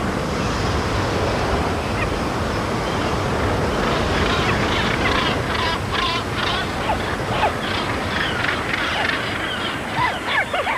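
Sea surf washing steadily, with a seabird colony calling over it: many short, harsh calls crowding in from about four seconds on.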